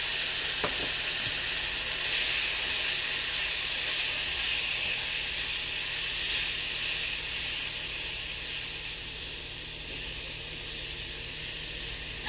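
Rava laddu mixture of roasted semolina, ghee, sugar and coconut sizzling in a hot non-stick pan with a few spoons of milk just poured in, stirred with a metal spatula. A steady hiss that grows about two seconds in and eases off toward the end.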